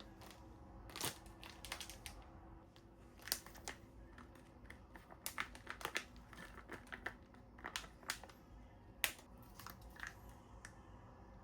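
Light handling sounds: scattered small clicks and taps with some crinkling, as things are picked up and set down.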